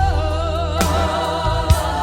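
Gospel music: a singer holds long, wavering sung notes over a steady bass line and a regular beat.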